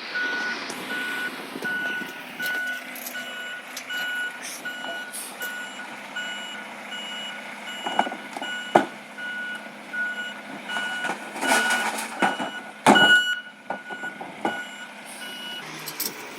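Recycling truck's reversing alarm beeping at an even pace, about two beeps a second, stopping shortly before the end. Several loud knocks and clatter come through in the second half.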